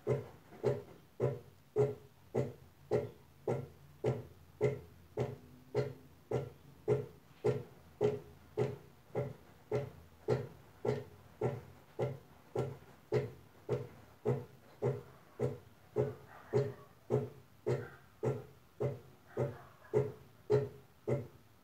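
Brastemp Advantech Wash washing machine agitating on its wool/extra-delicate cycle: the motor drives the wash in short, even strokes, a little under two a second, each a brief low hum.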